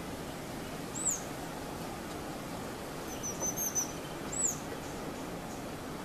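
Small songbirds give thin, high calls over a steady low background wash: one short arched note about a second in, a quick run of several notes around three and a half seconds, and another arched note at about four and a half seconds.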